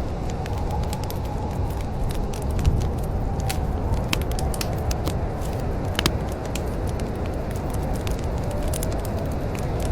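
Wood fire crackling, with irregular sharp pops and snaps over a steady low rumble. A faint wavering whistle sits in the background.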